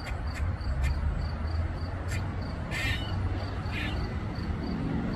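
Squirrel distress calls: a few short sharp clicks, then two short harsh, rasping calls about a second apart.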